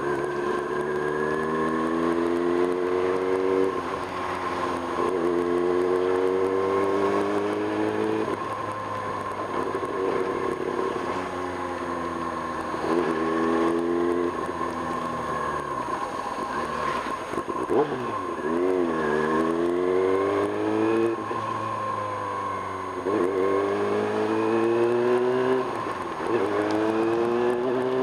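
1995 Kawasaki Ninja ZX-6R's inline-four engine under way, pulling up through the gears. The pitch climbs and drops back at each shift, several times over, and a little past halfway it falls away before rising again.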